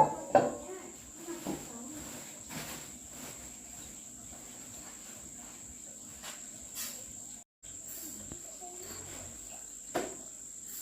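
Steady high-pitched insect trill, with a few short knocks near the start and one about ten seconds in; the trill drops out for a moment about seven and a half seconds in.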